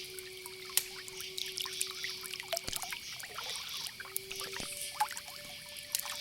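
Campfire crackling with frequent small pops and snaps, over a steady high chirring hiss of night insects such as crickets. A faint held tone sits underneath and steps up in pitch about three-quarters of the way through.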